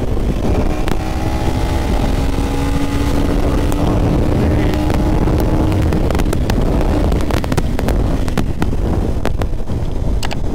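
KTM 250 Duke's 249 cc single-cylinder four-stroke engine running under way on the road, heard from the rider's seat, its note climbing gently over the first several seconds, with wind rushing over the microphone and a few sharp ticks in the second half.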